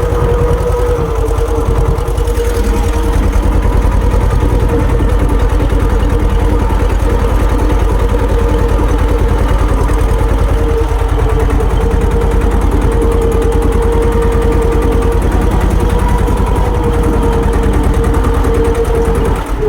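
Swaraj tractor's diesel engine running at a steady speed, with a steady whine held over the engine note.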